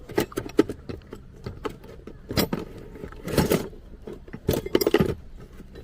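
Metal tools clinking and clattering as they are handled during repair work: irregular sharp clicks, with louder clusters of clatter midway and near the end.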